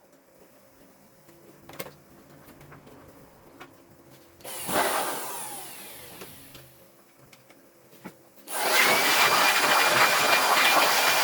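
An electric fan motor with rushing air, switched on briefly about four and a half seconds in and spinning down, then switched on again and running steadily with a thin high whine. A few faint clicks come before it.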